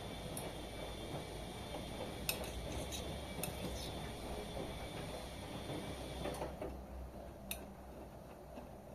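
Washing machine running mid-wash: a steady low hum with a faint high whine that cuts off about six seconds in, and a few light clicks and knocks.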